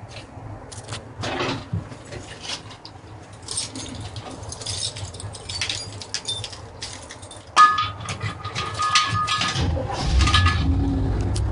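Keys jangling and clicks, then the step van's Chevrolet 350 V8 is cranked over by the starter and catches quickly, settling into a steady low idle near the end.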